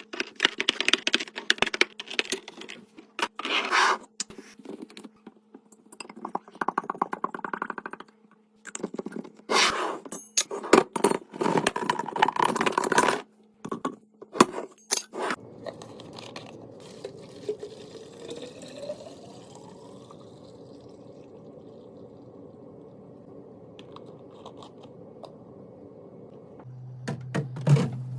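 Food packaging and containers handled while stocking a fridge: a quick run of clicks, knocks, scrapes and rustles for about fifteen seconds, then a steady low hum with only occasional small knocks.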